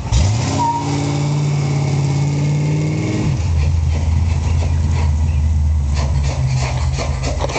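1956 Chevrolet pickup's engine pulling away: the revs climb steadily for about three seconds, then fall to a lower, steady note.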